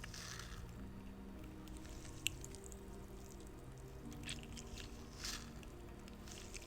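Squishy rubber spider fidget toy being squeezed: a few short, wet squishes, one near the start and two more later, with a sharp click a little after two seconds. Soft background music with slow held notes plays underneath.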